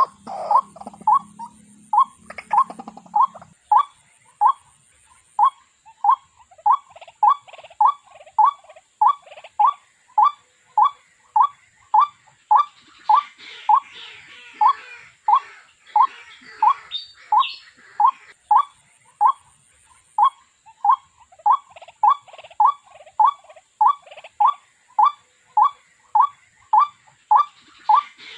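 Waterhen calling: one short, slightly rising note repeated steadily about twice a second.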